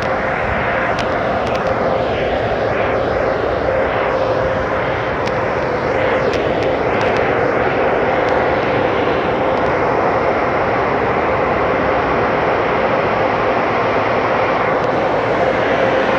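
Steady, loud rush of air from a car wash's high-powered electric dryer blowers, with a constant hum-like tone under it.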